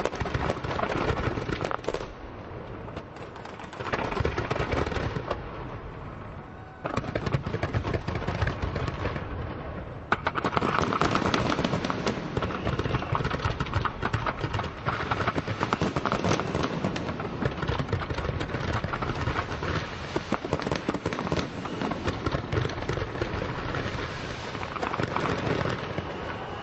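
Dense, continuous crackling and banging of a large fireworks display, the reports overlapping with no break, growing louder and busier about seven and ten seconds in.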